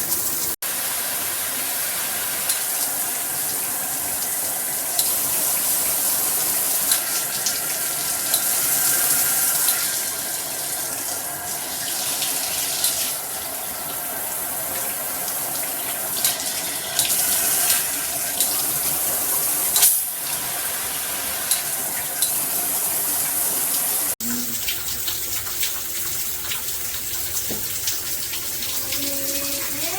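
Water running from a Cobbe 8-function handheld shower head: a steady rushing spray. The sound breaks off abruptly about half a second in and again about 24 seconds in, then carries on with a slightly different tone.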